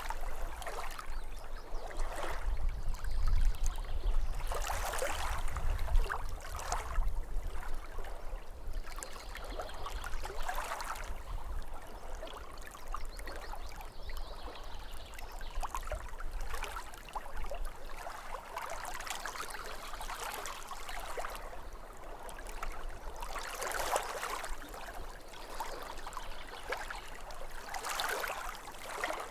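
Small waves lapping at a lake shore, washing in and out in uneven swells every few seconds, over a low rumble that is strongest in the first several seconds.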